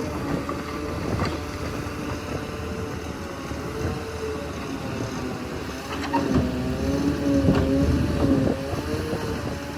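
Bulldozer's diesel engine working, its pitch wavering with the load, with scattered metallic clanks. It grows louder about six seconds in.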